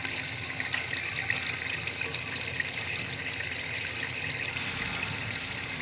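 Onion-and-tomato masala sizzling steadily in oil in a pot as a wooden spoon stirs through it, with small crackles throughout. The onions have broken down and the oil has separated to the top, the finished stage of the bhuna.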